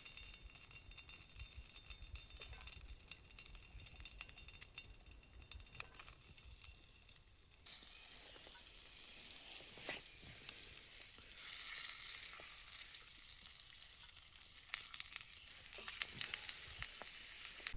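Food sizzling in a frying pan, with a steady hiss and many small crackles; the sizzle swells louder about two-thirds of the way in and again near the end.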